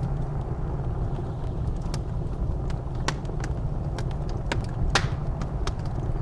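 Wood fire crackling in a fireplace, with scattered sharp pops, the loudest about five seconds in, over a steady low rumble of blizzard wind.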